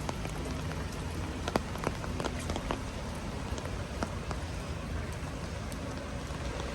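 Steady rain falling, with many sharp scattered ticks of individual drops landing close by.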